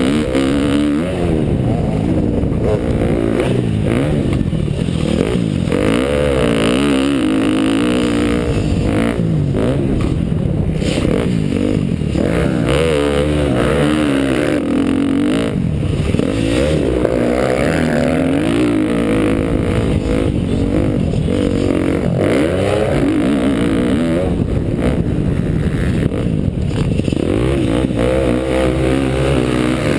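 2012 KTM dirt bike's engine being ridden hard on a motocross track, revving up and down over and over as the throttle opens and closes.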